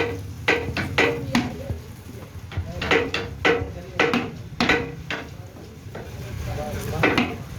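Metal being struck again and again: about a dozen sharp clanks at uneven spacing, each with a brief ringing tone, over a low steady hum.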